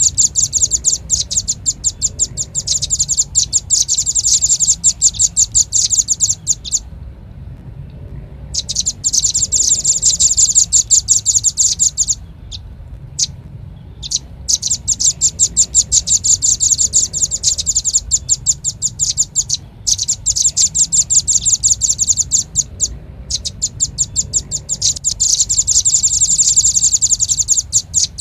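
Velvet-fronted nuthatch call played as a bird lure: long runs of rapid, high, evenly repeated chips lasting several seconds each, broken by short pauses, over a faint low hum.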